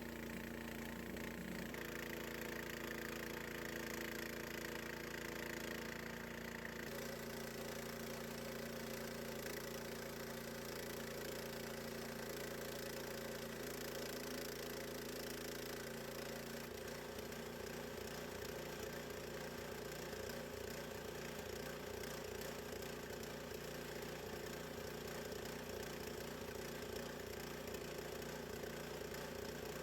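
Gasoline engine of a Harbor Freight bandsaw sawmill running steadily. Its note shifts a few times, and from a little past halfway it settles into a slower, evenly pulsing beat, like an engine dropping toward idle.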